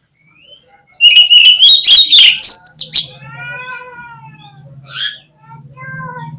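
Oriental magpie-robin (kacer) singing: a loud two-second burst of rapid sharp notes and high whistles about a second in, followed by softer warbled phrases.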